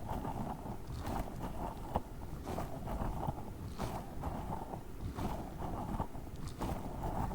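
Tiny spiky orbeez-filled squishy balls being squeezed and handled close to the microphone, in swells that come about once a second.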